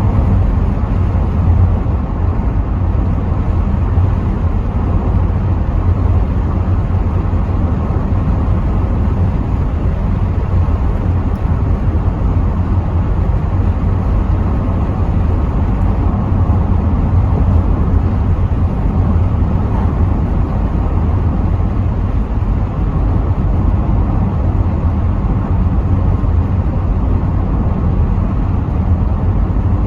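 Cabin noise of a Rover 75 V6 estate on the move: a steady low rumble of engine, tyres and wind, with no change in pace.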